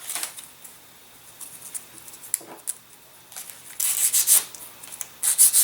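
Scratchy rubbing and scraping of hands working small model-aircraft kit parts, as a wing reinforcing patch is freed and handled. There are two louder bursts of rubbing, one a little before the end and one right at the end.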